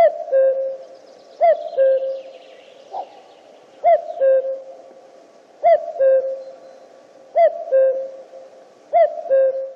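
Common cuckoo (Cuculus canorus) singing its two-note "cu-coo", a higher note dropping to a lower one, repeated about six times at steady intervals of a second and a half to two seconds.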